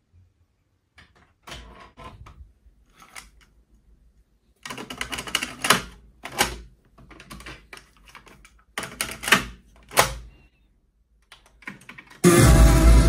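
Scattered clicks and knocks, in two denser clusters, as the Sony MHC-V808 mini hi-fi is handled and its controls are worked. Near the end, rock music from the system starts abruptly and loudly.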